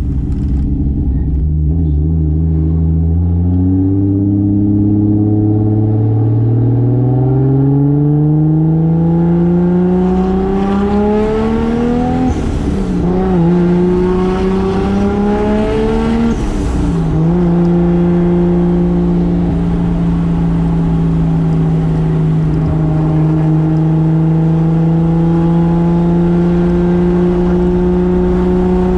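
Single-turbo 2JZ straight-six in a Toyota Soarer pulling hard under boost, its note climbing steadily through the revs. There are two quick gear changes, about halfway through and a few seconds later, each with a short hiss. It then settles into a steady, slowly rising cruise.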